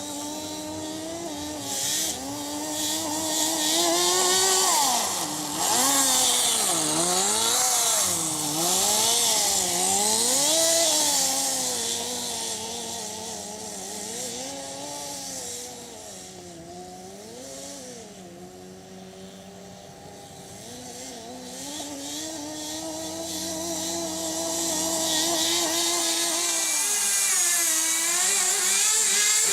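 Kyosho Blizzard RC snowcat's GX15 nitro engine running, its pitch rising and falling again and again as the throttle is worked. It fades somewhat in the middle and grows louder again toward the end.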